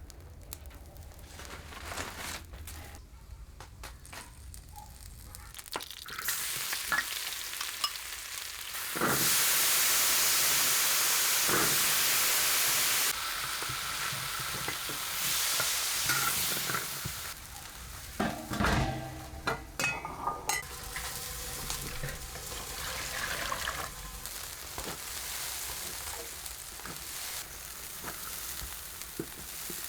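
Food frying in hot oil, sizzling with a steady hiss that swells about six seconds in and is loudest for a few seconds after that. It then eases off, with a few knocks and scrapes in the middle.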